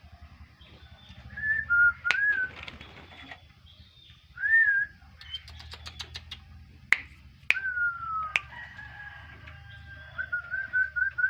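Oriental magpie-robin calling: clear, rising-and-falling whistled notes, a longer falling whistle, and a quick run of short notes near the end, with a few sharp clicks between them.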